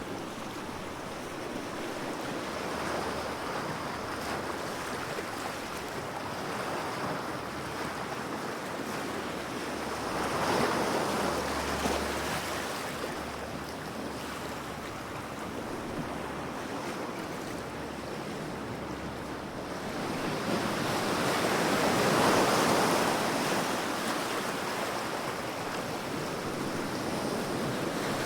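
Ocean waves washing in on a shore, a steady surf hiss that swells twice as larger waves break, about 10 seconds in and again around 22 seconds.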